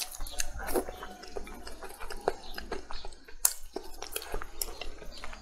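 A person biting and chewing braised chicken close to the microphone: wet mouth sounds broken by irregular sharp clicks.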